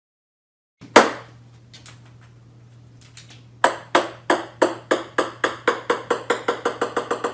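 A hard object strikes once with a sharp knock, then from about three and a half seconds a small hard object bounces, the knocks coming faster and faster and growing quieter as it settles. A steady low hum runs underneath.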